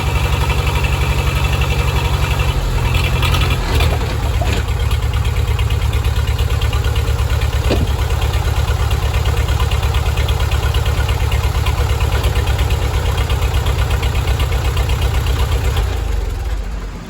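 1963 Case 310F bulldozer engine running at a steady idle with an even, low pulsing beat; the sound shifts slightly about three and a half seconds in and drops away near the end.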